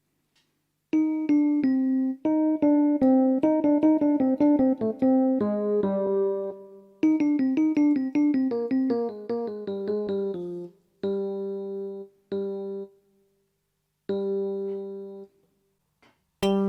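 Electric piano tone on a Casio AiX-engine portable keyboard played in quick runs of notes, then three separately held notes, with another phrase starting near the end.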